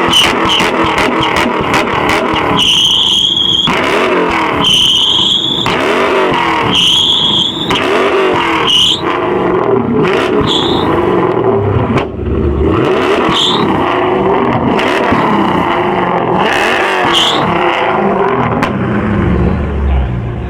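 Loud muscle-car engine revving hard and rising and falling in pitch, with tires squealing under wheelspin. There are three long rising squeals a few seconds in, then shorter squeals later.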